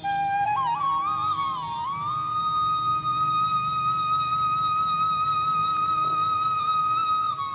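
A high whistling tone that climbs unevenly over about two seconds, then holds one steady pitch with a slight waver.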